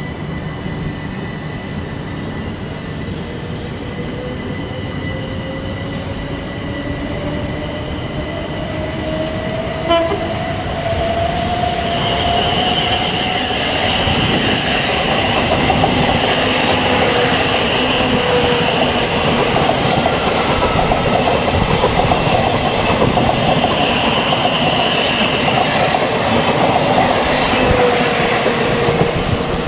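Thameslink electric multiple-unit train running through the station: an electric motor whine rises slowly in pitch as it picks up speed. From about twelve seconds in, the wheel and rail noise grows loud, with a high ringing band on top, and stays loud to the end.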